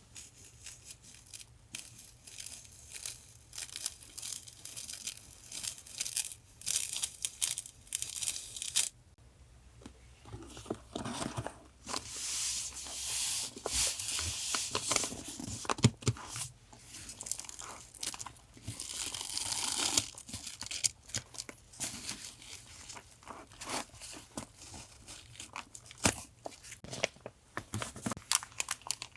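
Stationery packaging being torn open and crinkled by hand, with irregular rustling and tearing and a short pause about nine seconds in.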